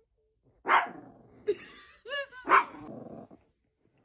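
Dog barking in short separate barks, about three of them, with a brief higher, arched yelp just before the last bark.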